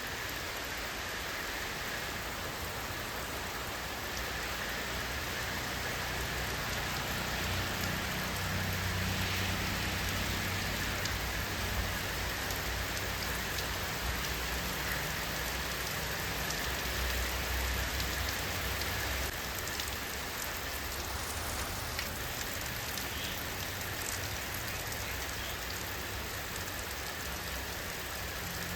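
Steady rain falling, an even hiss of many drops. A low rumble swells under it for about ten seconds in the middle and drops away fairly suddenly.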